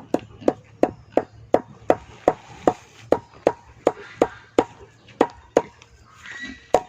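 Quick, regular chopping strikes, nearly three a second, with a short pause about five and a half seconds in before they start again.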